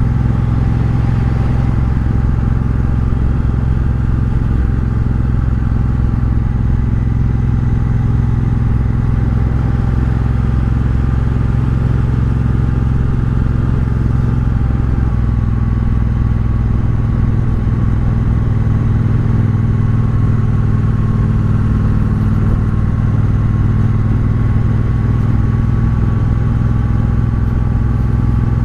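Triumph Bobber's 1200 cc parallel-twin engine running through a Vance & Hines exhaust while riding at a steady pace, the engine note changing about halfway through.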